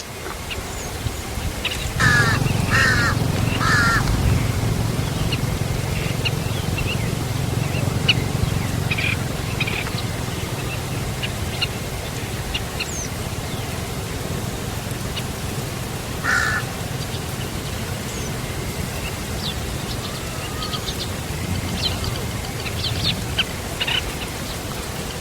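Bird calls: three harsh, rasping calls about a second apart, then a single call later on, with scattered faint chirps and clicks, over a steady low rumble.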